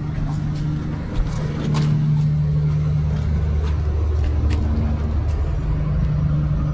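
A car engine idling steadily, a low even hum that gets a little louder about a second and a half in.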